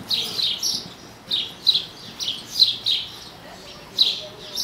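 A small bird chirping over and over in a string of short, high, downward chirps, about two a second.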